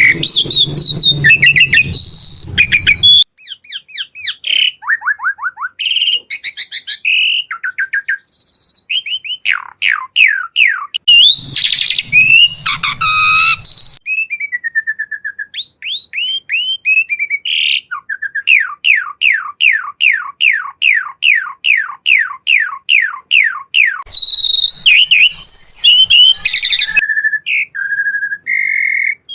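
Asian pied starling singing a loud, varied song of whistles and chirps, with a long run of quick downward-sweeping notes, about three a second, past the middle.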